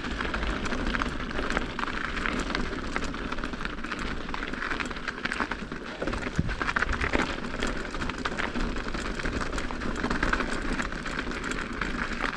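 Mountain bike rolling over an icy, snow-covered trail: steady crunching and crackling of the tyres on crusty snow and ice, with the bike rattling over the bumps.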